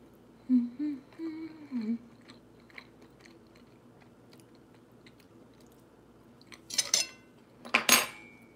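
A person chewing a mouthful of cheeseburger, with brief humming in the first two seconds and faint mouth clicks after. Two short, louder mouth noises come near the end.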